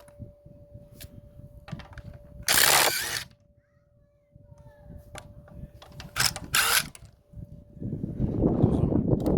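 Clicks and clatter as a 17 mm socket is fitted and set up, then, from near the end, a DeWalt DCF887 cordless impact driver hammering rapidly on a wheel nut.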